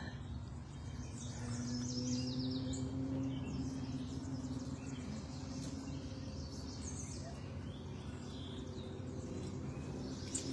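Wild songbirds singing short, quick phrases a few times, over a steady low hum.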